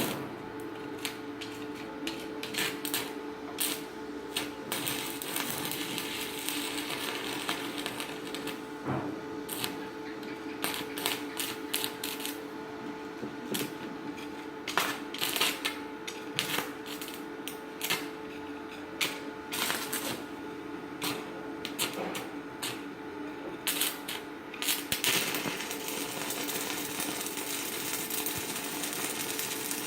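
Stick welding arc burning a 4.0 mm electrode on a Chinshui 160ARC inverter welder: irregular sharp crackling and snapping over a steady hum, thicker through the middle stretch.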